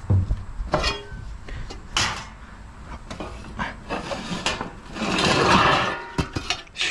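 Scrap being handled: a string of knocks and clatters, with a longer scraping rush about five seconds in.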